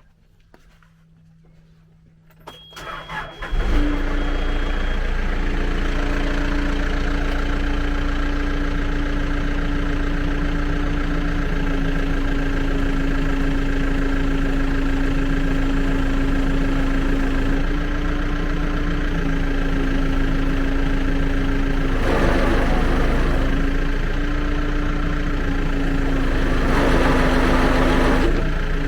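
Backhoe loader's diesel engine cranked on the starter and catching about three and a half seconds in, then running steadily. Twice near the end the sound swells louder and rougher for a couple of seconds as the hydraulics drive the screening bucket's belt-driven rollers.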